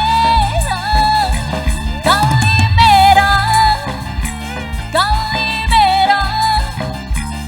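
Live dangdut band music: a sliding, ornamented lead melody over a repeating bass line and drum beat.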